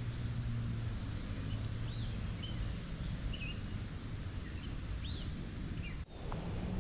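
Birds chirping, with many short rising-and-falling calls, over a steady low outdoor hum. The sound cuts out briefly about six seconds in.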